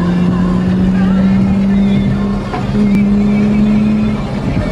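Car engine running steadily while driving, heard from inside the cabin as a low, even hum. About two and a half seconds in, its note drops out briefly and comes back slightly higher, then fades near the end.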